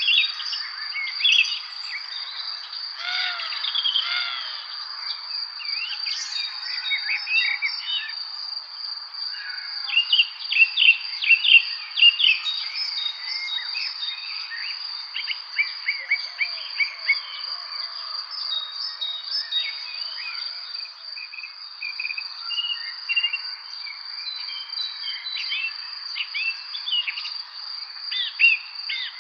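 Chorus of songbirds chirping and singing in the spring evening, with many overlapping short calls that grow busiest in the middle. Under them runs a steady, high-pitched insect trill.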